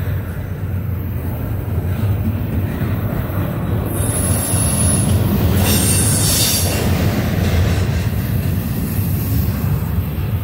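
Double-stack container cars of a Norfolk Southern intermodal freight train rolling past with a steady low rumble. About four seconds in, the wheels squeal high-pitched for about three seconds.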